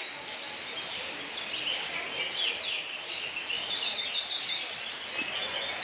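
Several caged competition songbirds singing and chirping at once, their quick overlapping trills and whistles running on without a break over a steady background din.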